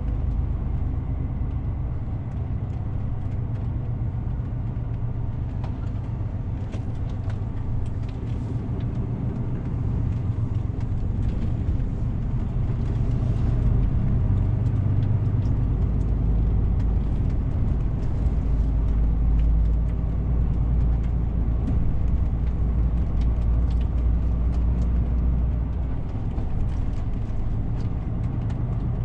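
DAF CF 450 truck's diesel engine running on the road, a steady low drone that shifts in pitch a few times as the engine speed changes, over tyre and road noise.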